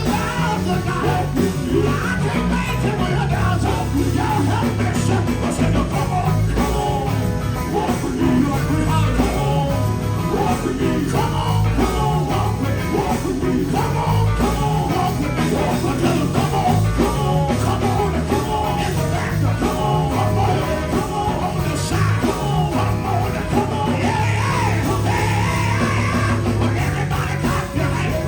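Live gospel band music with a steady beat and pulsing bass, voices singing along.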